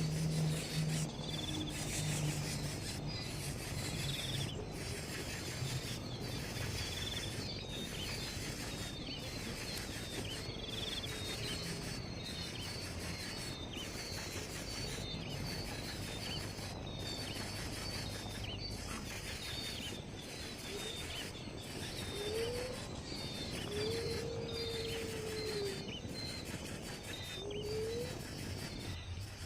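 Birds chirping over a steady outdoor hiss, with a few short low whistles in the second half.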